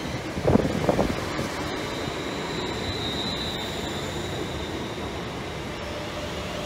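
London Northwestern Railway Class 350 Desiro electric multiple unit running past along the platform: a steady rush of wheels on rails, with a couple of loud knocks about half a second to a second in.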